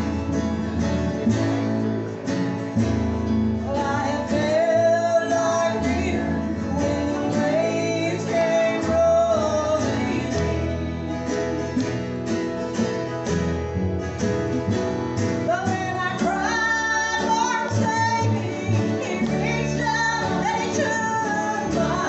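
Gospel group performing a song live: singing voices carry the melody over strummed acoustic guitar and a steady bass line, in a country or bluegrass style.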